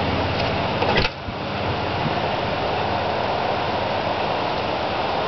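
A passing car's road noise fading away, with a sharp click about a second in, then steady wind and traffic noise.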